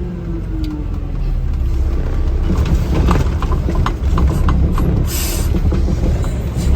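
Garbage truck engine rumbling steadily, heard from the cab, with scattered rattles and clicks and a short hiss of air about five seconds in.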